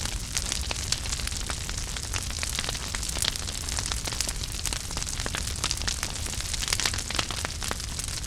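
Wood fire burning in a fireplace: a steady low rumble of flame with dense, irregular crackles and pops.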